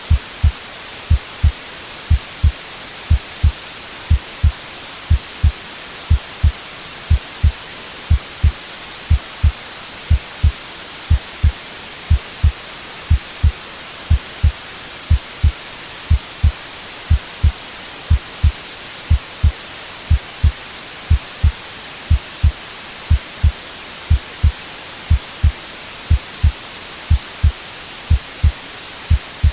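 A slow, steady heartbeat: paired low lub-dub thumps about once a second, mixed with a steady white-noise hiss.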